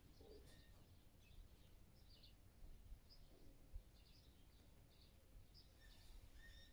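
Near silence, with faint, scattered bird chirps and twitters in the background.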